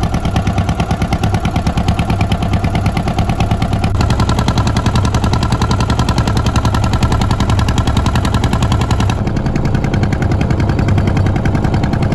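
Small boat's engine running hard, a loud, fast, even chatter of exhaust pulses.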